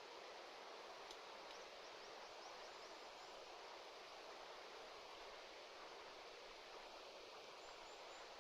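Faint, steady rush of a stream, with a short run of faint high chirps about a second and a half in and a few more near the end.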